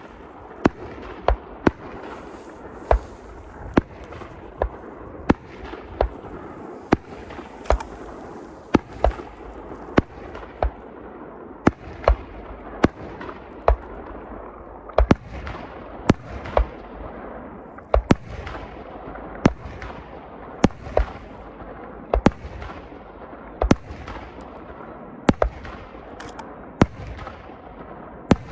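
Aerial fireworks shells bursting in quick succession, a sharp bang about every second, with a steady crackling hiss between the bangs.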